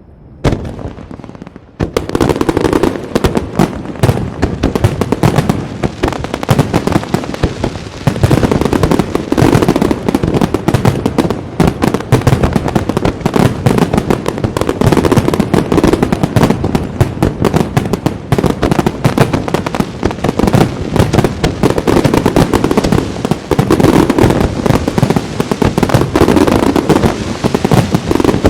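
Aerial fireworks going off in a dense, rapid-fire barrage of shell bursts and crackle, which comes in about two seconds in after a quieter start.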